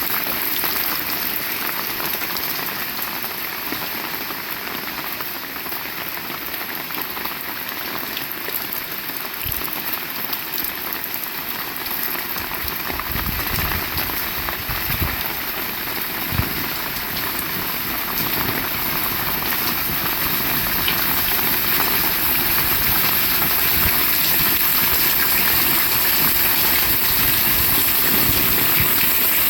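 Heavy rain falling steadily in an even hiss. A few low thuds come about halfway through, and the rain grows a little louder in the last third.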